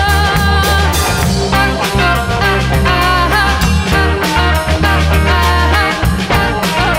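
A band playing a song live, with a steady drum beat and strong bass.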